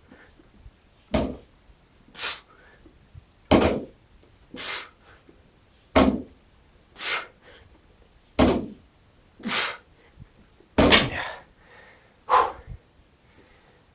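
A man breathing hard under exertion while lifting a barbell: short forceful exhales, some with a grunt, alternate with sharp hissing inhales, about one breath every second and a quarter.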